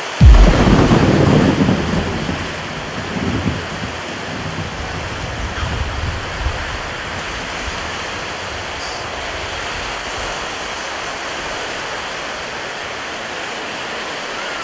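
Steady rush of stormy ocean surf and wind. A sudden loud, low rumble of thunder breaks in right at the start and fades over about two seconds, with a smaller rumble about three seconds in.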